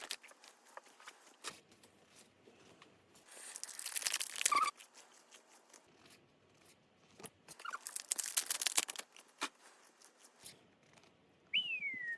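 Foil booster-pack wrappers being torn open, with two crackling tears about four seconds apart and small ticks of handling between them. Near the end there is a short squeak that falls in pitch.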